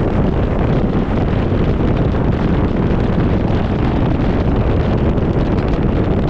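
Steady, loud wind rumble buffeting the microphone, as on a bass boat running across the lake.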